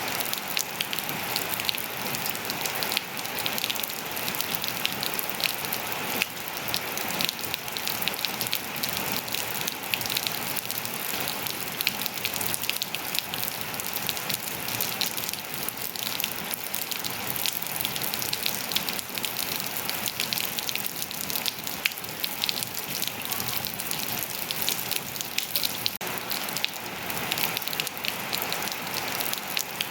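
Steady rain falling on hard surfaces, a dense, even hiss full of small drop ticks.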